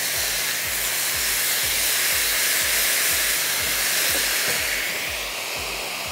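Mince and chopped onions frying in a wok, a steady sizzling hiss as they are stirred; the hiss eases off near the end.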